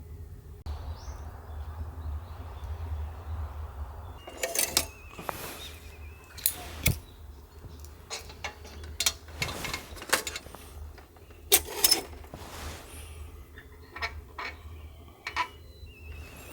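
A series of irregular sharp clicks and clinks, some ringing briefly, over a steady low hum.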